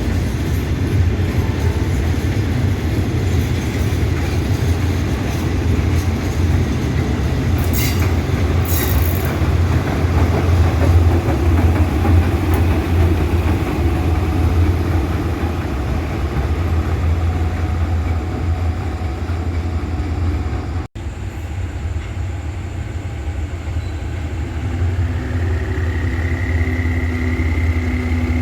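Train rolling past with a steady low rumble of rail cars and wheels on the track, cut off for an instant about three-quarters through, with a faint rising tone near the end.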